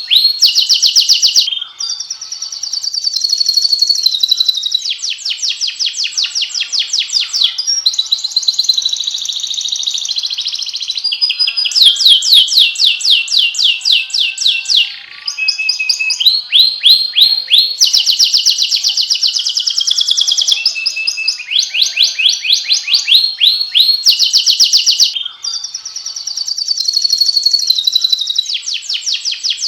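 Domestic canary singing a long, loud song of fast rolling trills and warbling phrases, broken only by brief pauses between phrases.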